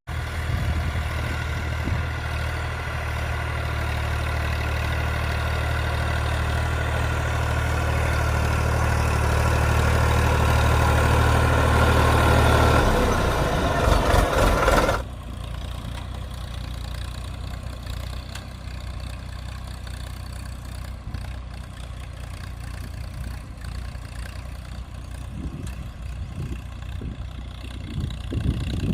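An engine running steadily and slowly getting louder, then dropping abruptly about 15 seconds in to a quieter, more distant running sound.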